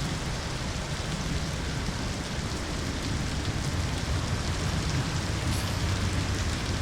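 Steady heavy rain, an even hiss, with a continuous low rumble underneath.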